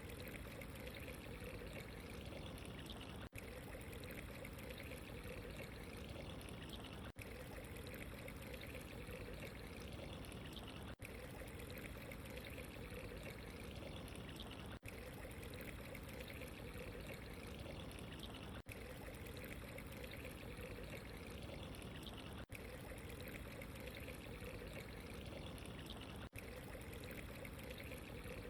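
Steady running water, a soft trickling flow. It breaks off for an instant about every four seconds, like the seam of a short repeating loop.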